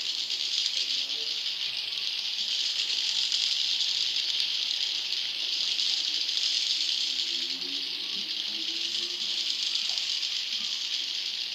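Juvenile edible-nest swiftlets calling: a dense, unbroken high-pitched rattling chatter of many overlapping calls. It is a swiftlet-farming lure call, used to attract young wild swiftlets.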